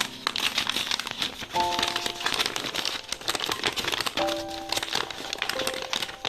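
Dense, rapid crinkling and rustling over soft background music with a few held notes.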